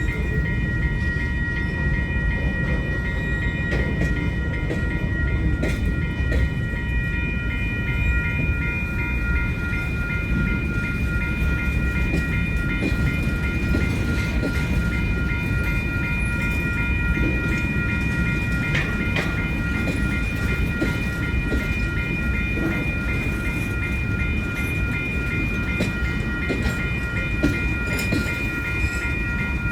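A freight train's cars roll past with a steady, continuous rumble. Over it a railroad grade-crossing warning bell rings rapidly and without pause.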